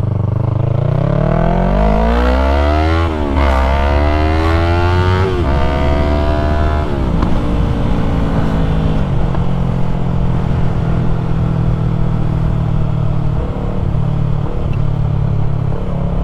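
Yamaha MT-03's parallel-twin engine through an aftermarket full-system exhaust, accelerating hard through the gears. The pitch climbs and drops with upshifts at about 3, 5.5 and 7 seconds, then the engine holds steady at cruising speed.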